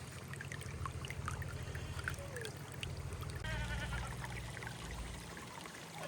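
A goat bleats once with a quavering call about halfway through, over a low steady rumble.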